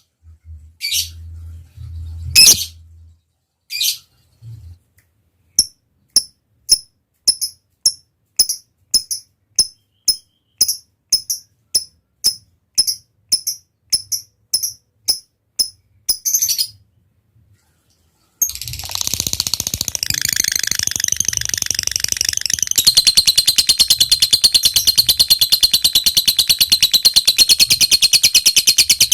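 Lovebird singing: a long series of short, evenly spaced chirps at about two a second (the 'ngetik' ticking call), then after a brief pause a long unbroken rapid chatter (the 'ngekek panjang' trill) from about two-thirds of the way in.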